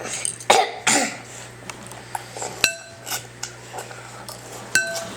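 Dishes and cutlery clinking at a meal. There are a few short scuffling noises in the first second, then two sharp clinks that ring on briefly, about a third of the way in and again near the end.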